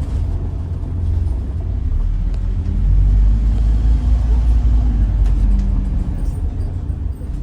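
Scania N94UD double-decker bus heard from inside the cabin while under way: a steady low engine and road rumble that swells louder about three seconds in and eases near the end.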